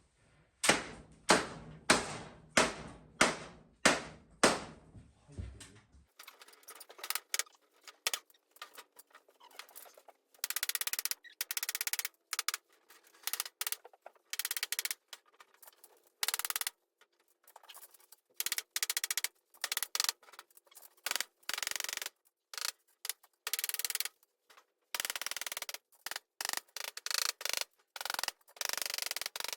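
Hammer blows, about two a second, during the fitting of a window frame in an old house; after about six seconds an edit cuts to a choppy run of short clicks and scraping snippets.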